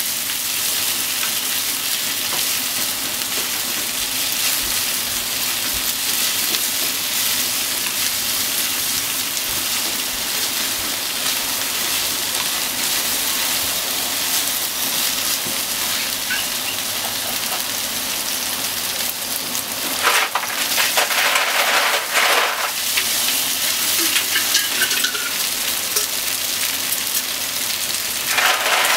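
Beef and sliced onions sizzling steadily in a frying pan. There are louder bursts of stirring and scraping about two-thirds of the way through and again near the end.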